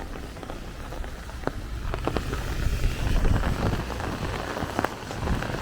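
Rain falling steadily on a wet street, with a few sharp taps of drops. A low rumble swells up after about two seconds and fades again near the end.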